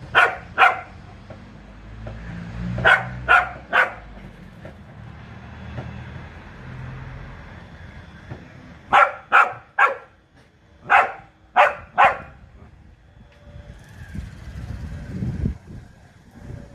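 Dog barking in short, sharp barks, about eleven in all, coming in groups of two or three with pauses between. A low rumble runs underneath for the first several seconds.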